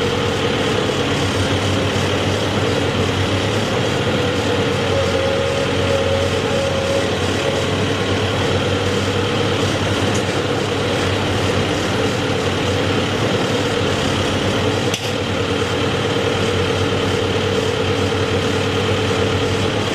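Heavy engine running steadily at idle, a constant hum with a steady mid-pitched tone, briefly dipping about fifteen seconds in.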